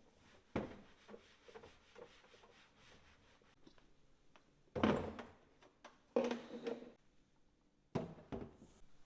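Household objects being handled and set down: four knocks and thunks, the loudest about five seconds in, with light clicks and rubbing between.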